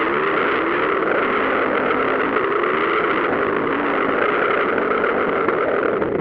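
Motocross motorcycle engines running hard, their pitch rising and falling as the riders work the throttle.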